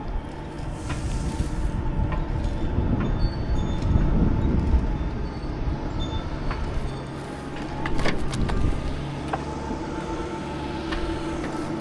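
A heavy engine running steadily, with scattered clicks and knocks, loudest about four and eight seconds in.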